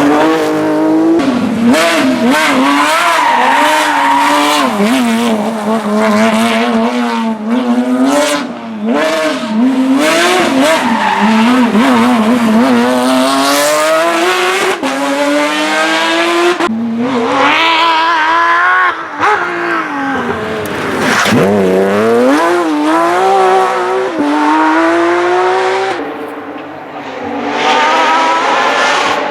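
Porsche 911 GT3 rally car's flat-six engine being driven hard, revving up through the gears and dropping back on each shift and lift-off, with tyre squeal at times. The engine eases off briefly near the end before pulling hard again.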